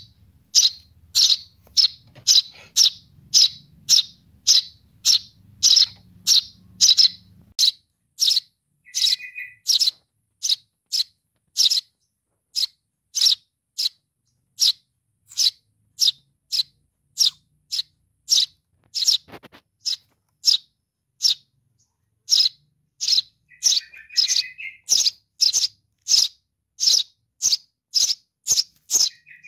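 Sparrow chick, a young Eurasian tree sparrow, giving begging calls to its parent: short, high chirps repeated steadily about twice a second. Twice a softer, lower chirp comes in between them.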